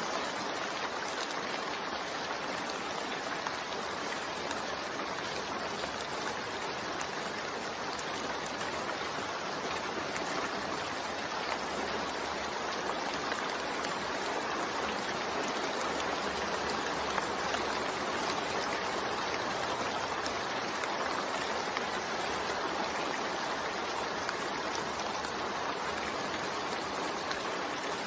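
Steady rain falling, a constant even hiss with no thunder or breaks.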